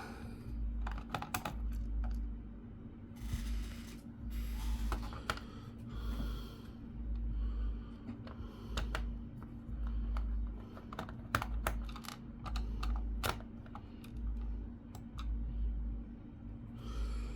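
Irregular clicks and light taps of a small screwdriver working a screw out of the plastic underside of an HP Pavilion G6 laptop, with a faint steady hum underneath.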